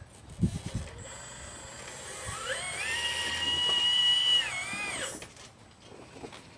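Electric motor of a 1/12-scale RC Liebherr 954 excavator model whining: it rises in pitch, holds steady for about a second and a half, then winds down.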